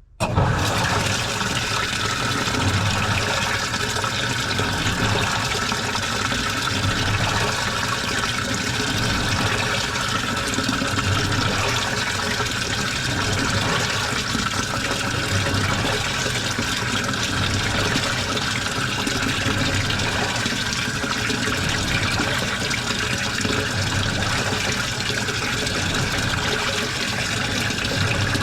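Washing machine filling with water: the water inlet comes on abruptly and water pours steadily into the drum.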